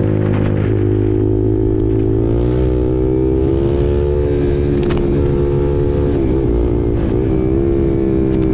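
KTM RC 390's single-cylinder engine running through an SC Project aftermarket exhaust while riding. The note climbs about two seconds in and holds steady, with two brief dips in pitch near the end.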